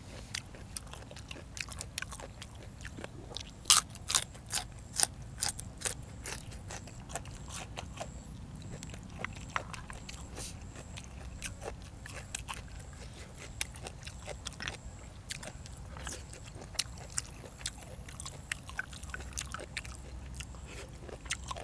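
Close-miked eating sounds: a person biting and chewing through a meal of boiled apple snails and raw vegetables, with crunches and sharp clicks, most frequent a few seconds in.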